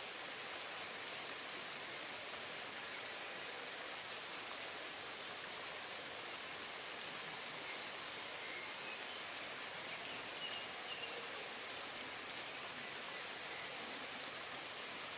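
Steady rain falling on leaves, an even hiss, with a few sharp clicks about two-thirds of the way through.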